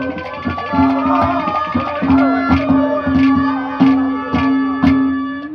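Live Haryanvi ragni accompaniment played without singing: a tuned hand drum (tabla-type) beats a steady rhythm under a wandering melody line.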